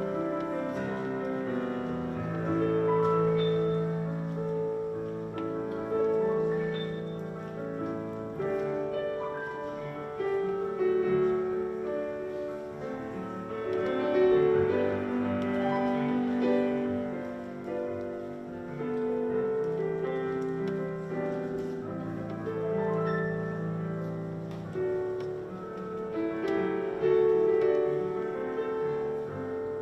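Slow instrumental music on a keyboard, held chords changing every couple of seconds.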